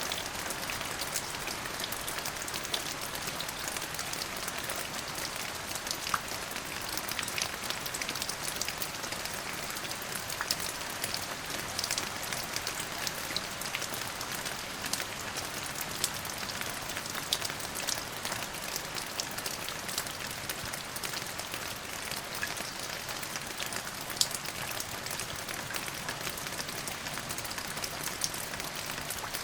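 Steady rain falling on a surface, an even hiss with many small separate drop taps scattered through it.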